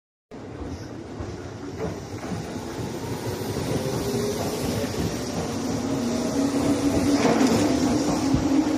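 Electric commuter train moving along a station platform and gathering speed. Its traction-motor whine rises slowly in pitch and the sound grows steadily louder, with wheel clicks over the rail joints.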